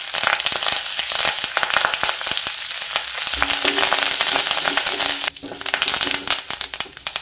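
Fresh curry leaves spluttering and crackling as they fry in hot oil in an aluminium kadai while a metal spoon stirs them. The crackling thins out briefly a little past five seconds, then picks up again.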